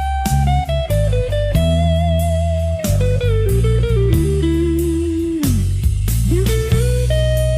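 Slow blues instrumental: a lead guitar line glides down in pitch over a few seconds, dips sharply near the middle and climbs back, over steady bass notes and a drum beat.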